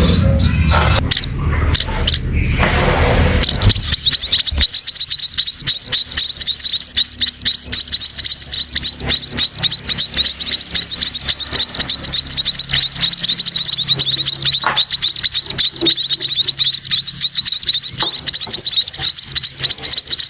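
Munia chicks begging: a continuous stream of short, high, rising chirps, several a second, beginning about three seconds in after some rustling and handling noise.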